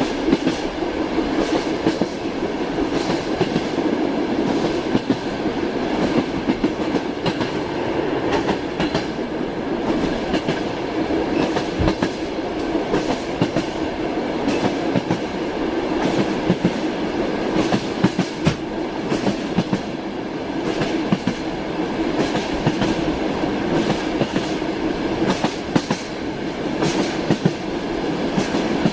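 Passenger train carriage in motion, heard from inside: a steady rumble with the wheels knocking over rail joints every second or so, at uneven spacing.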